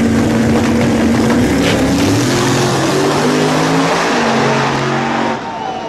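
Several race car engines at full throttle: first a steady high engine note, then, from about two seconds in, engine notes climbing in steps as the cars shift up through the gears. The sound eases near the end.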